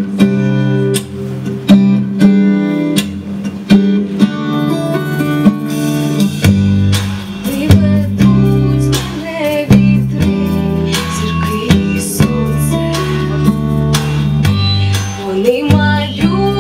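Acoustic guitar strumming the intro of a song, played live, with a deeper low part joining about six seconds in.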